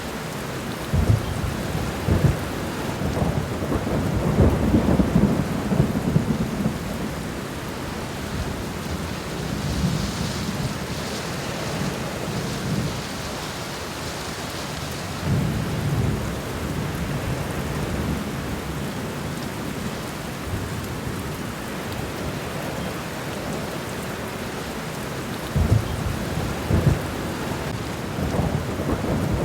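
Steady rain falling on the ground, with low rolling thunder rumbling over it. The rumbles build about a second in and last until about seven seconds, return around fifteen seconds, and come again near the end.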